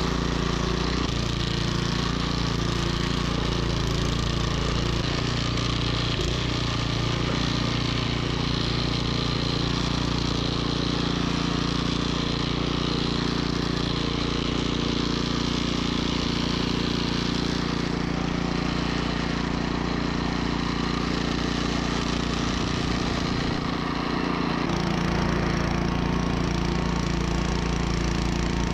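Troy-Bilt snowblower engine running steadily under load, its note shifting slightly near the end.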